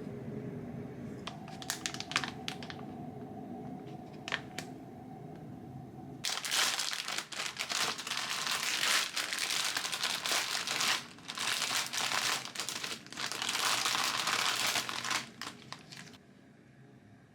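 Packaging crinkling and rustling in loud, uneven bursts as it is handled, starting about six seconds in and stopping shortly before the end. Before it there is a low steady hum with a few light clicks.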